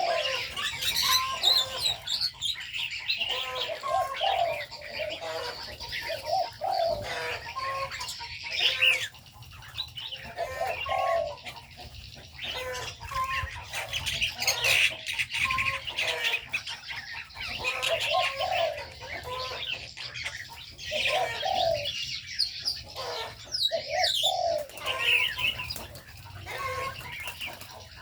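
Spotted doves cooing in short low phrases that recur every few seconds, over a steady chatter of many small birds chirping.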